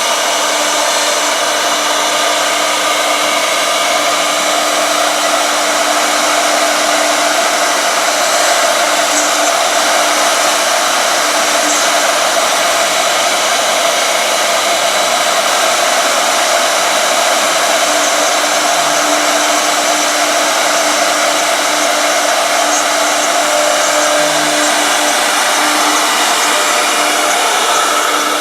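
Two-spindle 1325 CNC router running steadily: a loud, even high whine made of many held tones over a hiss. A low tone comes and goes.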